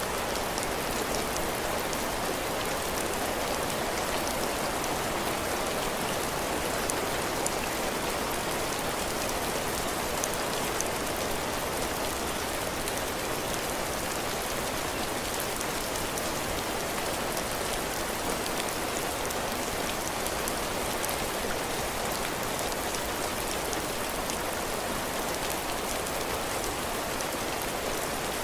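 Heavy, steady rain falling on a cabin porch, with the drops hitting the roof and the floor in a dense patter of small ticks.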